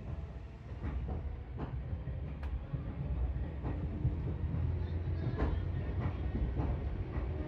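Seibu electric commuter train running at speed, heard from on board: a steady low rumble with irregular clacks of the wheels over rail joints.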